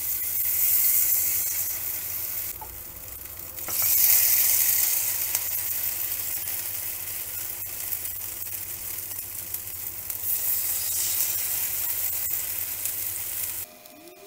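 Zucchini fritter batter sizzling in hot vegetable oil in a frying pan, the sizzle surging each time a fresh spoonful of batter goes into the oil, then stopping abruptly near the end.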